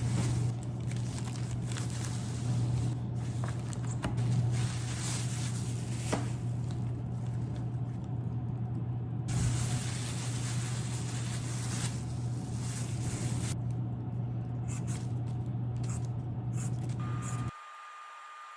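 Steady low hum with a rushing noise over it and a few faint ticks, which cuts off suddenly near the end and leaves a faint steady tone.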